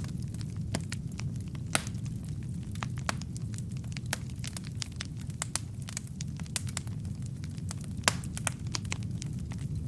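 Wood fire burning in a fireplace: a steady low rumble of flames with frequent sharp crackles and pops from the logs, two louder pops about two seconds in and about eight seconds in.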